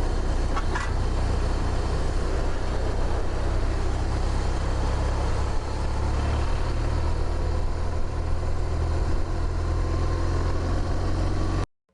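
BMW motorcycle engine running steadily under a constant rush of wind and road noise, heard through a helmet or bike-mounted camera. It cuts off suddenly just before the end.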